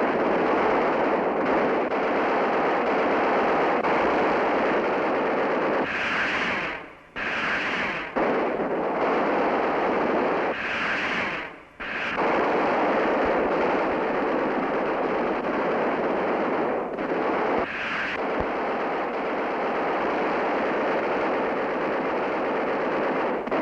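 Anti-aircraft guns firing in a dense, continuous barrage, broken by a couple of brief lulls.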